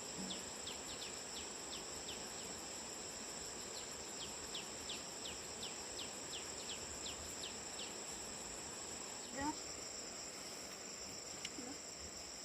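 Steady high-pitched drone of crickets or similar insects, with a rapid run of short, high, falling chirps for most of the first eight seconds. A brief rising call is heard about nine and a half seconds in.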